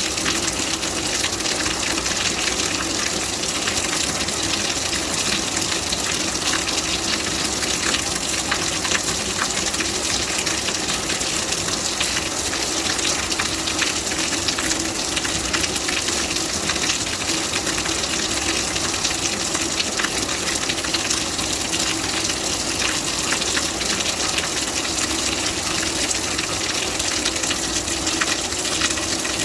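Steady rain: an even hiss dense with the small ticks of falling drops.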